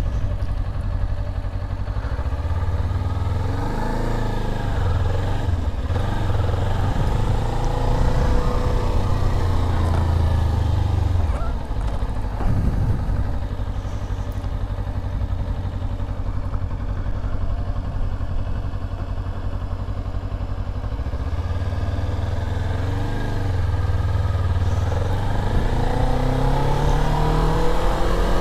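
Motorcycle engine pulling away and easing off during a slow practice run, its note rising as it speeds up in the first few seconds, dropping back about twelve seconds in, then climbing again in the last seven seconds.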